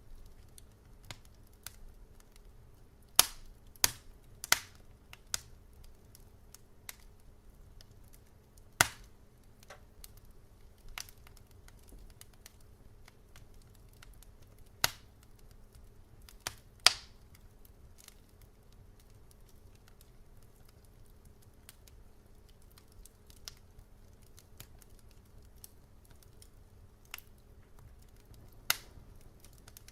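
Fireplace fire crackling: sharp, irregular pops and snaps, a few loud ones among many faint ticks, over a faint steady low hum.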